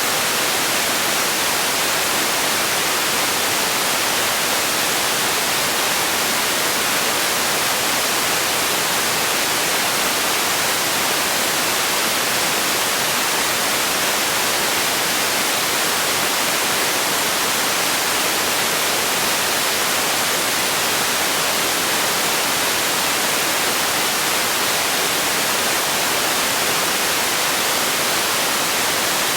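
Steady white noise for sleep or relaxation: an even, unbroken hiss, brighter in the high end than the low, with no change.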